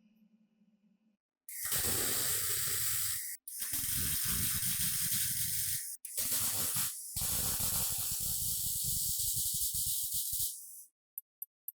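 Long bursts of pressurized spray hissing, three to four of them a few seconds each with brief breaks between. A few quick, sharp ticks follow near the end.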